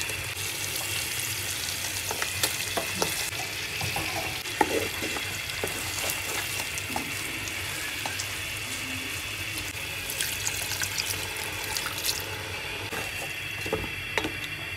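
Shrimp curry sizzling and bubbling in a pot as a metal utensil stirs and turns the giant prawns, with scattered light clicks and scrapes of metal against the pan over a steady frying hiss.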